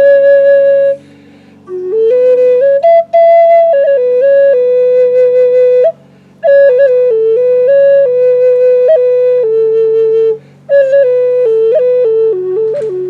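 Native American flute played solo: a slow melody in phrases, each note clear with a breathy edge, broken by brief pauses for breath.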